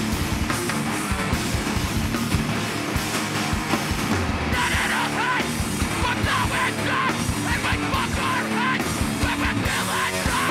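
Live heavy rock band playing: distorted electric guitars and pounding drums, with a yelled vocal coming in about four and a half seconds in.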